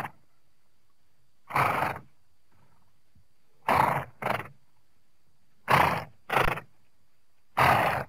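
Horse giving short, harsh vocal bursts, about six of them roughly every two seconds, the later ones in close pairs.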